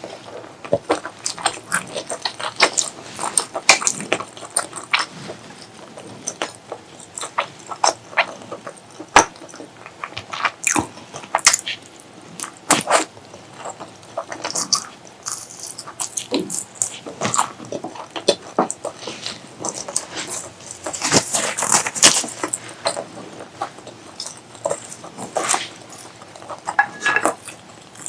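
Close-miked eating sounds: irregular wet chewing and mouth smacks with sharp clicks, and a denser, louder stretch about three quarters of the way through.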